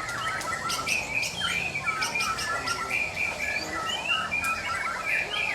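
Murai songbird singing a long, varied song of quick whistled notes and chatter with no pause.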